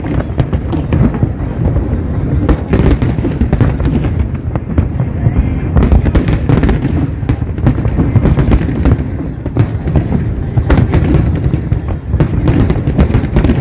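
Fireworks display going off: a dense run of sharp cracks and crackles over a continuous deep rumble of bursts.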